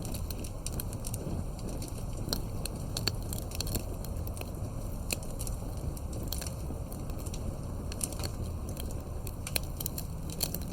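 Wood fire crackling: irregular sharp pops and snaps over a steady low rumble, as in a fireplace ambience track.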